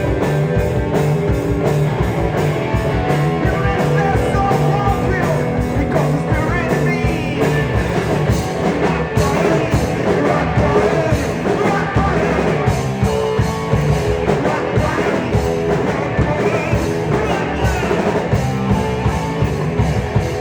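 A live rock band playing loud and dense, with electric guitar over a fast, steady drum kit beat.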